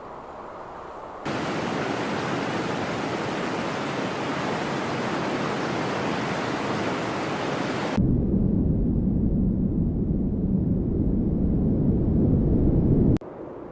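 Steady rushing noise in edited sections: a bright, full rushing sound starts abruptly about a second in, changes suddenly around eight seconds in to a deeper, lower rumble, and cuts off sharply near the end.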